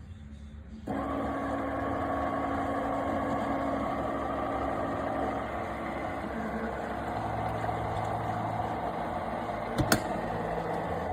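De'Longhi TrueBrew's built-in coffee grinder running steadily, starting abruptly about a second in, with a sharp click near the end.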